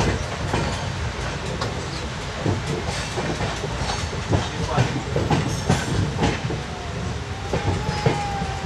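LHB passenger coach running at speed, heard from inside the moving train: a steady rumble of wheels on the track with irregular sharp clicks and knocks from rail joints. A faint thin whistling tone comes in near the end.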